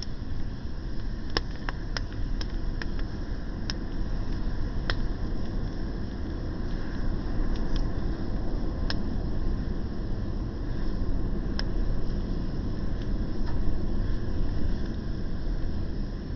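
Wood fire burning, with sharp crackles and pops scattered irregularly over a steady low rumble.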